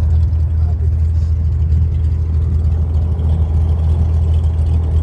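Small seaplane's engine and propeller running steadily with a deep low hum, heard from inside the cabin.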